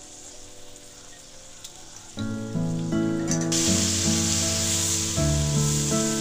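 Long beans stir-frying in a hot wok: a strong, even sizzle starts about halfway through. Background music with a clear run of notes comes in a little before the sizzle and is the loudest sound.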